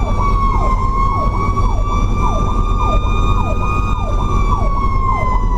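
Fire truck's mechanical Federal Q siren held at a high steady pitch that begins winding down, falling in pitch from about four seconds in, over an electronic yelp siren cycling about twice a second. A heavy low rumble from the truck's engine runs beneath.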